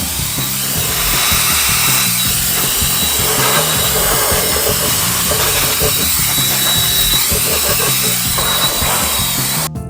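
COLBOR AirMaxx A1 mini jet fan running at speed: a steady rush of air with a thin high whine, cutting off suddenly just before the end. Background music with a steady beat plays underneath.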